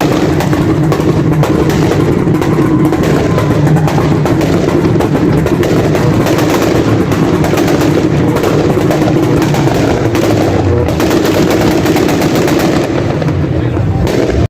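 Car engine held on a two-step launch limiter at a steady rpm, its exhaust popping and crackling rapidly and continuously.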